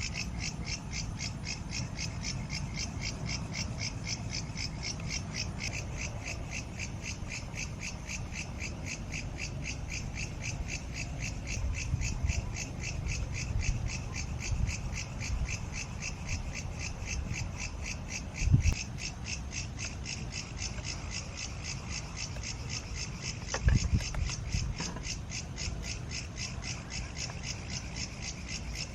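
A steady chorus of calling night animals, rapid evenly spaced high-pitched pulses, over a low rumble. Two dull low thumps sound about two-thirds of the way through, a few seconds apart.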